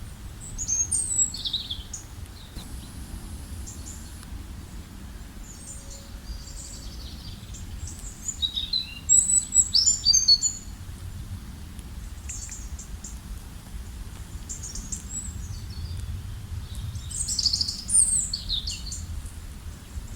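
Birds singing in scattered bursts of quick, high chirps and trills, loudest about nine to ten seconds in, over a steady low background rumble.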